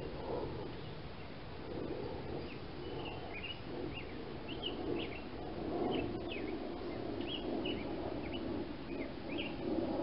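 A small songbird chirping over and over in short, quick, high chirps, over a steady background hiss of outdoor noise, with a single faint click about halfway through.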